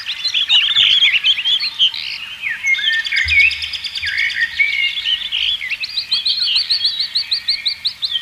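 Several songbirds singing and chirping at once, their calls overlapping throughout. In the second half one bird repeats a short rising note about five times a second.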